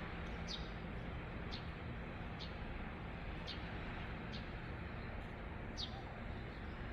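A steady rushing seaside wash, with a small bird repeating a short, falling chirp about once a second.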